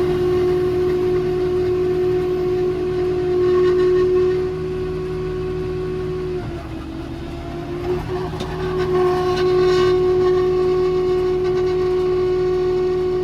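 Tractor running a round baler, a steady droning whine with a clear pitch. About halfway through it sags lower and quieter for a couple of seconds, there is a knock, and it comes back up to its steady pitch.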